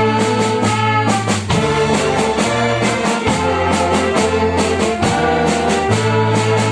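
Brass band playing: trumpets and trombones holding sustained chords over low bass notes, with a drum kit keeping a steady beat on cymbals.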